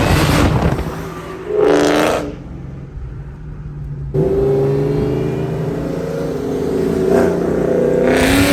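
Mustang V8 engine revving: a loud burst at the start, a short rev about two seconds in, then after a brief lull a long pull of several seconds whose pitch climbs slightly near the end.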